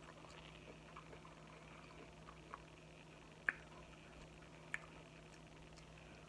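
Quiet wet chewing and mouth sounds of eating saucy shrimp, with two sharp clicks about three and a half and nearly five seconds in.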